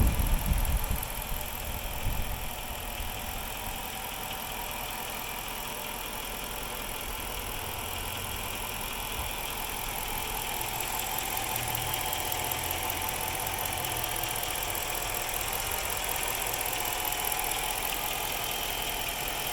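Chrysler 300C's 5.7-litre Hemi V8 idling with a very rough idle. It is louder for about the first second, then runs steadily.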